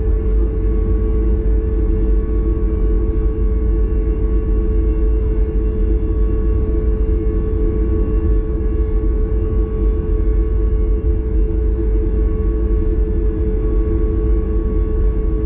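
Boeing 737 MAX 8 cabin noise: a steady drone of the CFM LEAP-1B engines and airflow, with a heavy low rumble and a steady whine that holds one pitch throughout.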